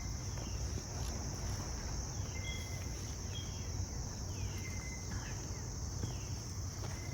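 Outdoor insect chorus: a steady, high continuous drone. Short chirps and falling whistles repeat about once a second, over a low rumble.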